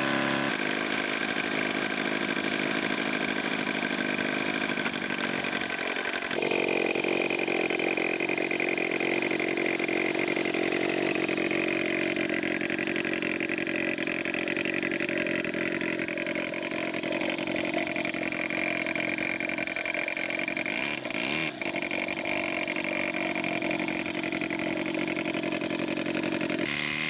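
Saito 270 four-stroke model aircraft engine on a 1/3-scale Nieuport 17, swinging a 22x8 propeller, running steadily; about six seconds in it is throttled up sharply and then holds a steady high-rpm note, as for the takeoff run of a first flight.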